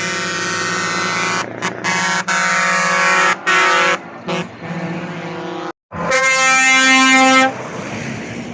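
Truck air horns sounding in a series of blasts, a few short toots and some held notes, then one loud blast held for about a second and a half near the end.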